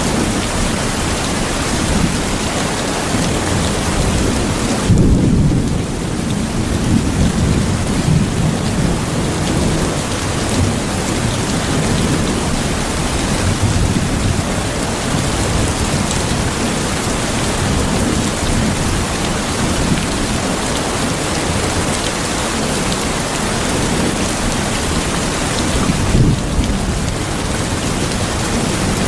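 Steady heavy rain with low thunder rumbling through it, swelling about five seconds in and again near the end.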